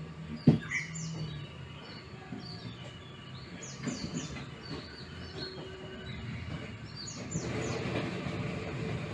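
Small birds chirping over and over in short, falling high notes, with a single sharp knock about half a second in. A steady rushing noise swells up near the end.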